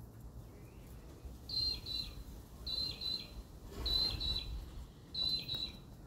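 A bird calling four times at an even pace, each call a quick pair of clear, high notes.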